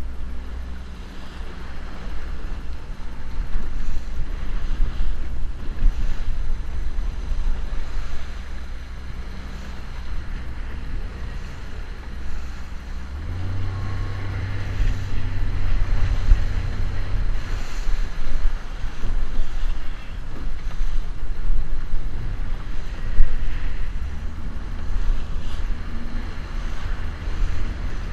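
Small boat's motor running steadily, with wind and water noise over it. The engine note rises about thirteen seconds in, drops back a few seconds later, and picks up slightly again near the end.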